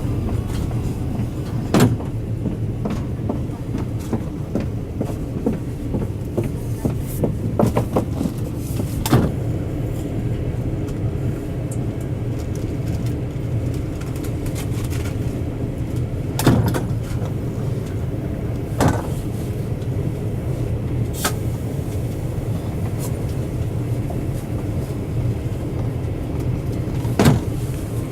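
KTX high-speed train heard from inside the passenger car while running: a steady low rumble and hum, with a few short sharp knocks scattered through it.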